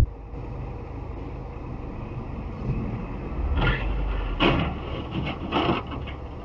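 Steady road rumble of a moving vehicle, with three or four short, harsh bursts of noise about midway.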